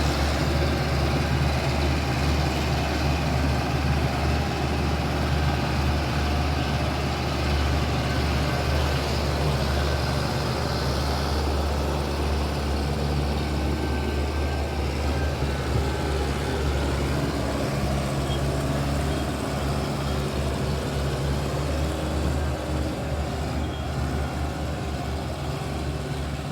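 Tractor diesel engine running steadily under load, hauling a sugarcane-laden trolley, growing a little fainter near the end.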